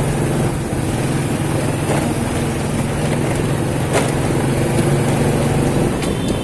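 Motorcycle engine running steadily while riding through city traffic, with the hum of other vehicles around it.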